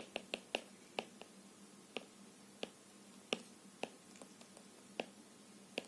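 Irregular light clicks and taps from a pen tip on a writing surface, about a dozen over six seconds, as the answer is written out.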